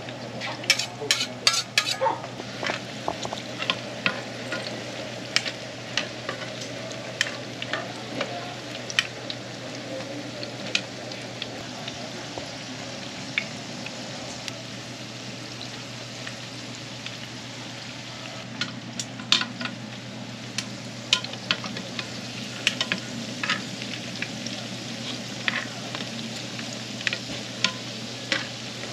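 Fish cake hotteok frying in shallow oil in an electric pan: a steady sizzle with sharp pops and ticks throughout, a dense cluster of them in the first two seconds, some from a metal spatula and tongs knocking the pan.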